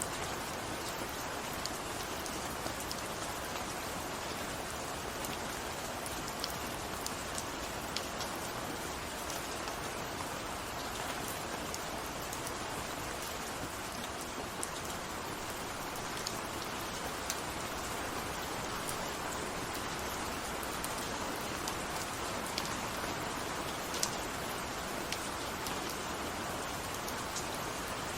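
Steady rain falling, an even hiss of rain with scattered sharper drop ticks.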